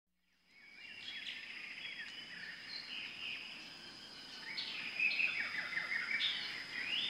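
Several birds chirping and calling in quick, overlapping short notes, many of them sweeping downward. The calls fade in over the first second and grow busier about halfway through, over a steady high-pitched tone.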